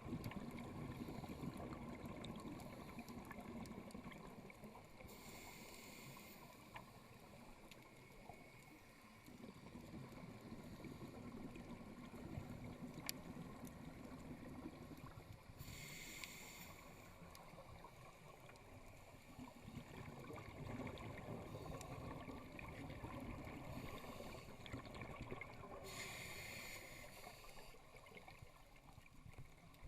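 Scuba diver breathing underwater through a regulator. A steady bubbling and gurgling runs throughout, and three high breaths about ten seconds apart stand out.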